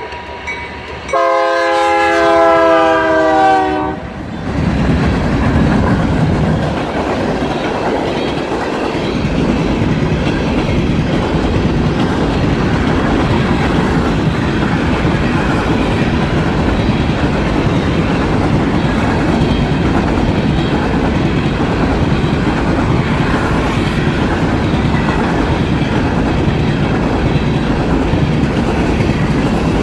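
Freight locomotive horn sounding a long blast for the first few seconds, then the BNSF ballast train passing close by, a loud, steady rush of locomotives and cars on the rails.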